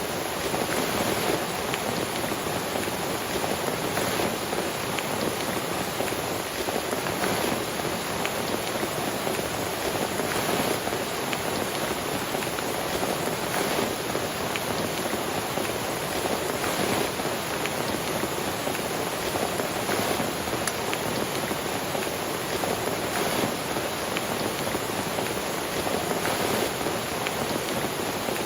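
Steady rain falling on a tent, with many single drops ticking through the steady hiss.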